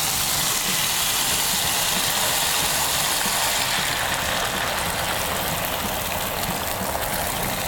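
Chicken wings sizzling in a hot frying pan over high heat: a steady hiss that eases a little about halfway through.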